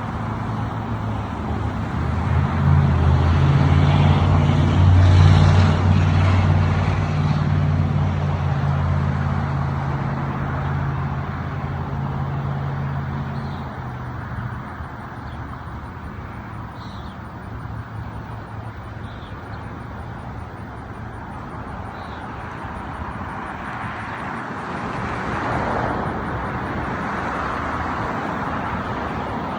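An engine running close by, building to its loudest about five seconds in and fading away by about fourteen seconds, over steady road traffic noise.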